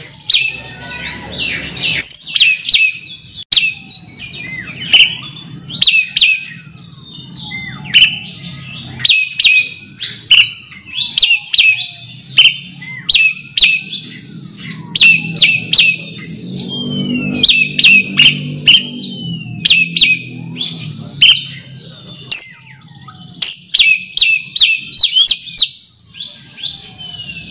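Oriental magpie-robin (kacer) singing: loud, quickly repeated clusters of sharp, high whistled notes with short gaps between phrases, the song used to call out a rival.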